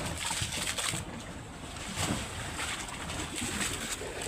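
Motorboat running over the water, a steady rumble mixed with water noise and wind buffeting the microphone.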